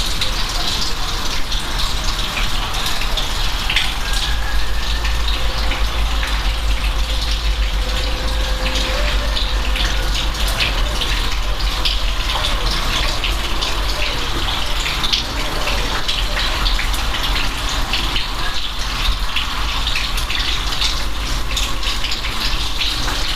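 Steady heavy rain, a dense patter of drops over a constant low rumble.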